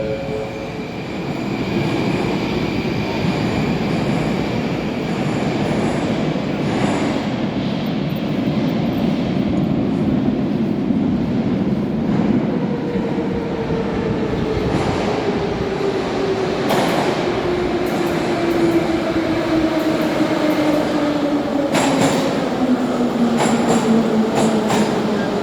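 Moscow Metro train running with a steady rumble, its traction-motor whine falling steadily in pitch through the second half as the train brakes. Sharp wheel clicks over rail joints come several times near the end.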